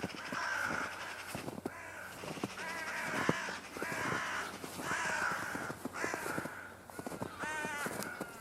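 Crows cawing over and over, about one harsh caw a second, with footsteps crunching in snow beneath them.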